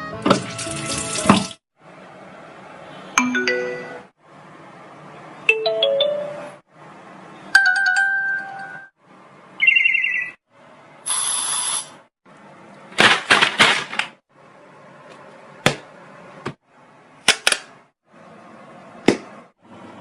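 A rapid string of about ten short sound-effect clips cut back to back, each a second or two long with a brief dead silence between: chime- and ringtone-like tones, short stepped and gliding beeps, a harsh noisy burst, and several sharp clicks near the end.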